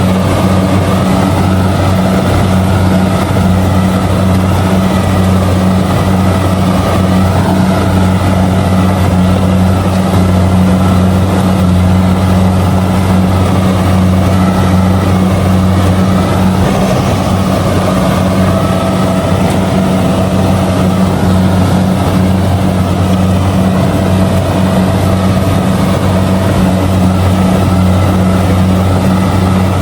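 Kubota DC-70G combine harvester's diesel engine and threshing machinery running steadily under load while harvesting rice, a constant low drone with no change in speed.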